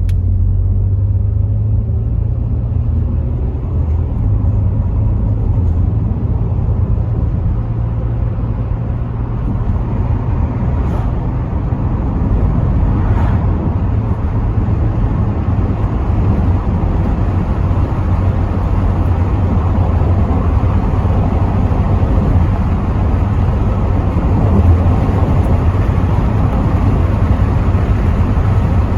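Rover 75 V6 estate being driven, heard from inside the cabin with the windows partly down: a steady low engine and road rumble. Wind and tyre noise build over the first few seconds as the car gathers speed, then hold steady.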